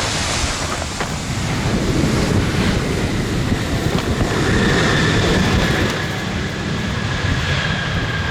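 Strong wind buffeting the microphone with a low rumble, over the engine noise of a jet airliner; a steady high whine comes in about halfway through.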